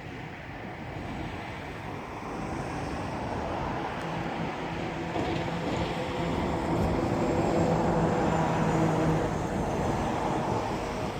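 A passing engine-driven vehicle: a steady rumble that builds over several seconds, carrying engine tones and a faint high whine, and eases off near the end.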